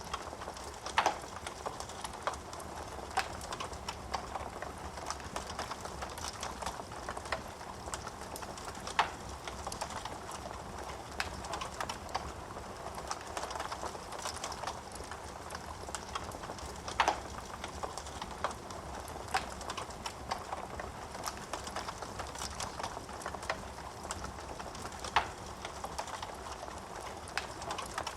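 Wood fire burning in a fireplace: a steady hiss with many small irregular crackles, and a few sharper, louder pops of the burning wood several seconds apart.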